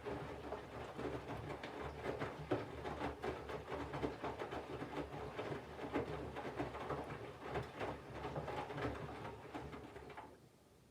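Candy GVF4 front-loading washing machine tumbling a wet load: the drum motor hums while laundry and water slosh and knock irregularly inside the turning drum. The drum stops about ten seconds in.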